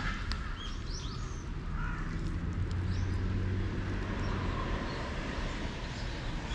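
Small birds chirping now and then, short high calls, over a steady low rumble that swells for a couple of seconds in the middle.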